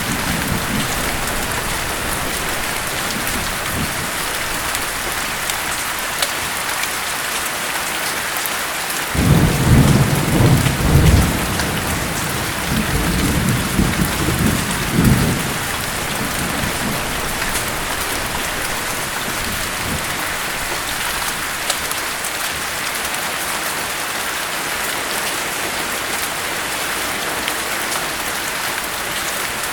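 Steady heavy rain falling on a surface, with a roll of thunder rumbling from about nine seconds in until about sixteen seconds.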